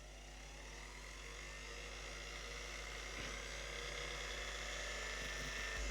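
Mixer-grinder universal motor, freshly rewired and out of its body, running on its third speed through a 100-watt series test lamp: a whine that climbs in pitch during the first second as it spins up, then holds steady and slowly grows louder, over a steady low hum. Running on this speed through the lamp is the sign the repaired motor's connections are right.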